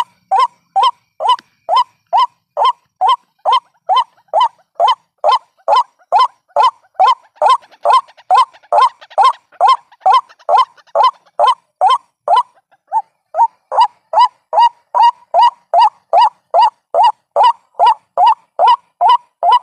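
White-breasted waterhen calls used as a trapping lure: a steady, loud run of short repeated notes, about two or three a second. The rhythm falters briefly about twelve seconds in.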